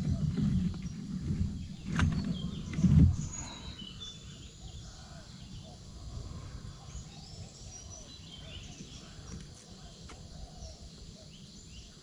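Low thumps and knocks with a couple of sharp clicks in the first three seconds, then small birds chirping in short calls.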